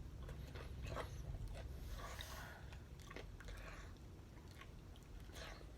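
Faint chewing and biting of chicken wings close to the microphone, with small scattered clicks.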